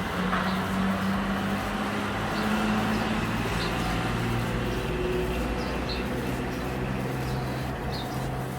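Boeing 747-200 airliner's engines droning steadily with a couple of low humming tones, heard from the ground as it comes in to land.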